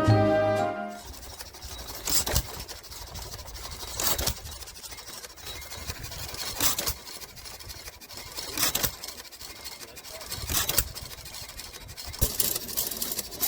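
An engine running at idle, with short louder bursts every two seconds or so. Music ends about a second in.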